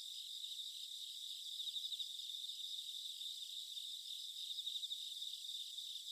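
Insects chirping in a steady, high-pitched cricket-like chorus, with a fast even pulsing and no low sound under it.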